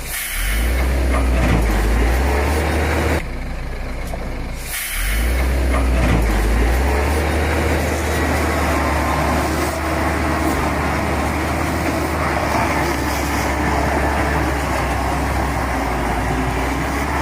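A heavy truck's engine running hard under load with a deep, steady rumble. It eases off briefly about three seconds in and picks up again, and a bright hiss of air is heard as it picks up.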